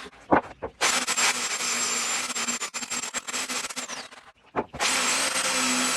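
A handheld power tool's motor running in two long bursts with a steady high whine and a rough grinding hiss. The first burst runs about three seconds and winds down with a falling whine; the second starts again a little before the end. A couple of short knocks come before the first burst.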